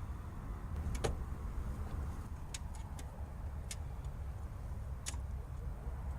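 A handful of short, sharp clicks and knocks from the doors and contents of a parked car being searched by hand, over a steady low rumble.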